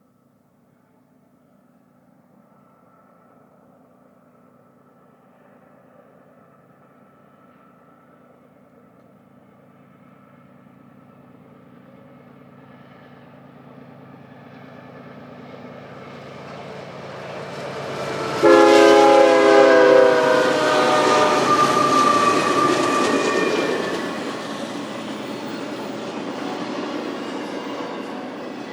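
A BNSF diesel-hauled freight train approaching, its locomotive engines growing steadily louder. About two-thirds of the way through, a loud air-horn blast sounds as the locomotives pass, followed by the steady rumble and clatter of the freight cars rolling by.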